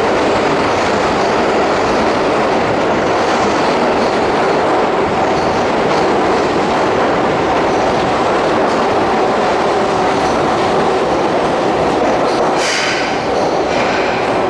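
Keihan Main Line electric train running along the platform, a loud steady rumble with wheels clacking over the rail joints. Near the end there are two short shrill sounds.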